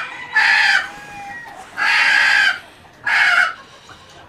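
Chickens calling: three loud, harsh squawks, each under a second long and about a second apart.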